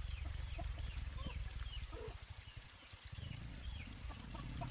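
Chickens clucking, with scattered short high chirps and peeps, over a steady low rumble.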